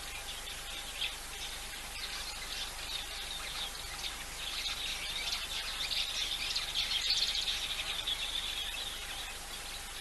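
Many small birds chirping and twittering in a dense chorus, busiest in the middle and later part, over a steady background hiss of outdoor ambience.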